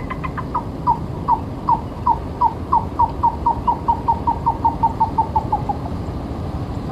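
A bird calling a series of about twenty short notes that speed up and drop slightly in pitch before stopping, over a steady low background rumble.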